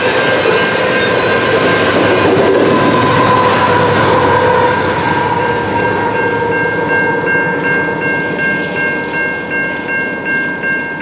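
Last coal hopper cars and the rear pusher locomotive (an AC4400CW) of a coal train rolling past, with a dense rumble and wheel-on-rail noise that fades away after about five seconds. A high ringing tone runs throughout and pulses about twice a second once the train noise has died down.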